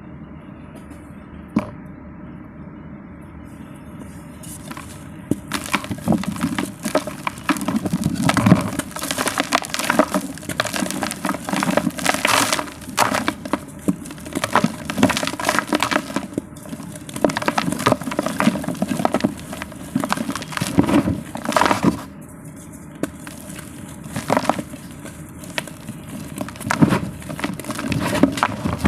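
Dry multani mitti (Fuller's earth clay) being crumbled: dense runs of crisp cracks and crunches start about five seconds in after a low steady hum, with a short pause near the end before they resume.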